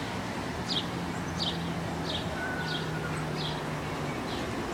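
A bird chirping over and over, about one and a half short downward chirps a second, over a steady low hum and background noise.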